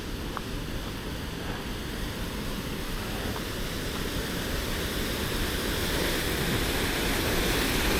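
Rushing floodwater crashing through a small stream channel, a steady hiss that grows steadily louder.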